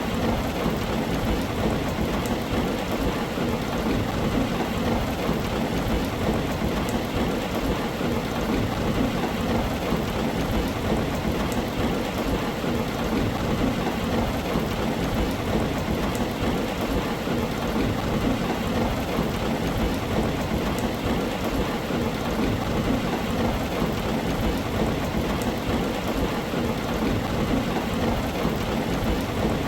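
Steady rain drumming on a tin roof, with a constant low rumble underneath.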